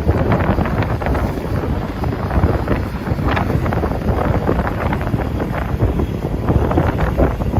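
Strong wind buffeting the microphone: a loud, steady low rumble with constant gusty flutter.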